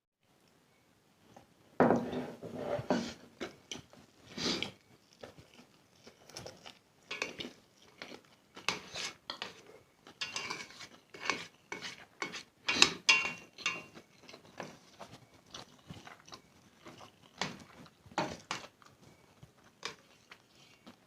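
Close-miked eating of spicy instant noodles: irregular wet chewing and biting clicks and smacks, starting about two seconds in.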